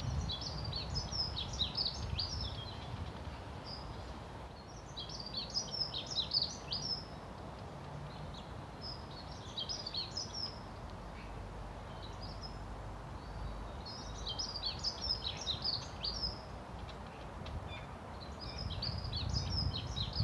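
A songbird singing short, rapid, warbling phrases of varied chirps, five phrases about four seconds apart, over a steady low background rumble.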